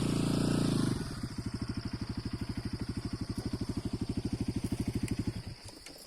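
Motorcycle engine revving briefly, then settling to a steady, evenly pulsing run before dropping away about five seconds in.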